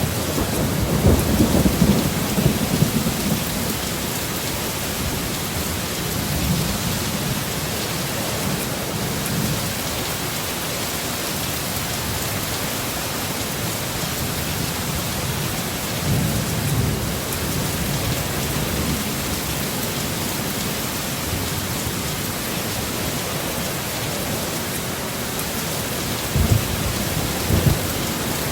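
Heavy rain falling steadily in a thunderstorm, with low rolls of thunder about a second in and again a few times through the middle, and two short sharp thunder cracks near the end.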